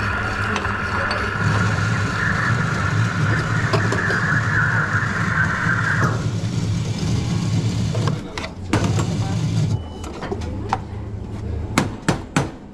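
Espresso machine running: a steady hiss that stops abruptly about six seconds in, over a low hum that stops near ten seconds. A few sharp knocks follow near the end.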